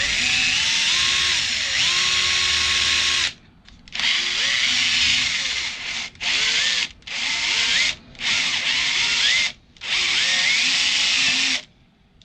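Electric drill boring a bolt hole, run in six bursts with short pauses between. Its motor pitch rises at the start of each burst.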